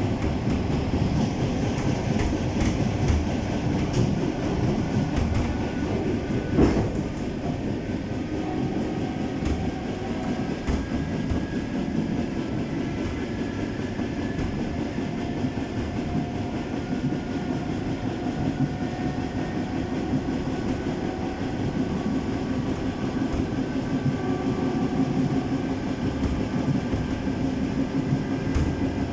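ED9M electric commuter train running along the line: a steady rumble of wheels on rail with clickety-clack over the rail joints and faint steady humming tones. A single sharp knock about seven seconds in.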